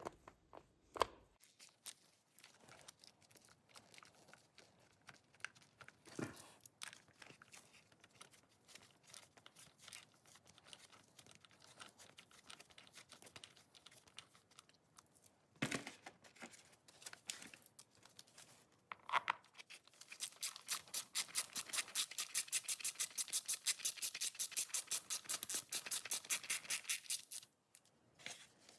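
Faint scattered clicks and scrapes of hand tools on the motorcycle's oil filter cover bolts, then, from about twenty seconds in, a ratchet wrench clicking in a fast, even run for about seven seconds as a cover bolt is run in.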